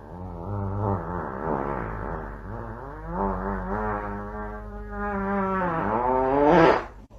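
A dog howling: one long, wavering howl that swoops up in pitch near the end and then stops.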